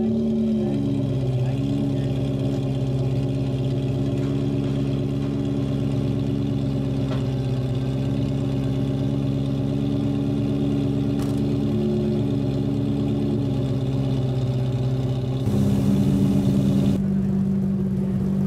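Ferrari 348's V8 idling steadily, its pitch lifting briefly a couple of times. About fifteen seconds in it gives way abruptly to a different car's engine, louder, as a red coupe drives slowly past.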